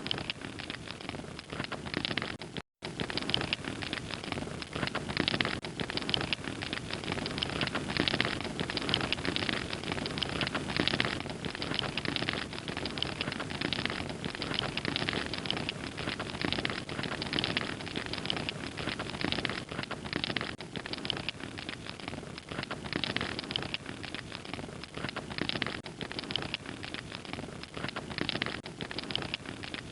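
Wood fire crackling and popping steadily, a dense run of small snaps over a soft rushing bed. The sound cuts out completely for an instant about three seconds in.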